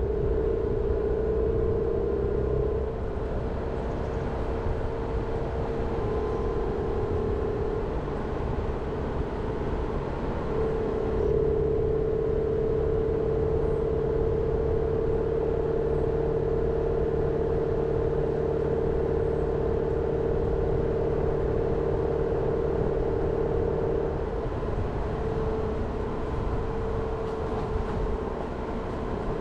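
Jeep Renegade driving along, its engine and road noise running steadily with a held engine tone that shifts slightly in pitch and level a few times.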